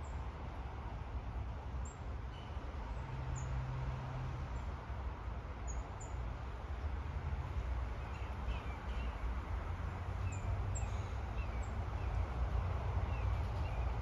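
Small songbirds calling: scattered thin, very high chips, and from about eight seconds in a quick series of short down-slurred calls, over a steady low rumble.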